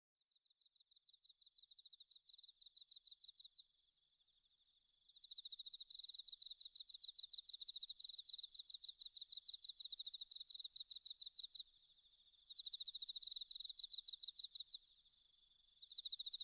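An insect's chirping trill: one high, steady pitch pulsed rapidly, coming in bouts of a few seconds with short gaps, faint at first.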